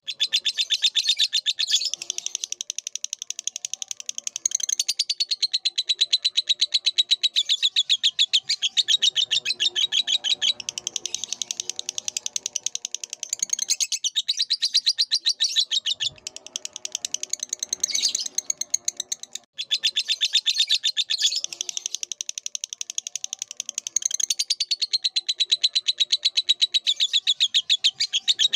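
Lovebird song: long runs of rapid, high-pitched chattering chirps, broken by brief pauses.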